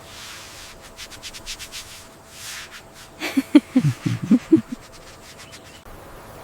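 A quick run of short scraping or rubbing strokes, then a burst of short, low grunt-like sounds about three seconds in.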